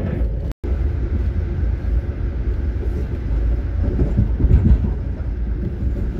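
Amtrak Northeast Regional passenger train running on the rails, heard from onboard as a steady low rumble. The sound drops out for a moment about half a second in.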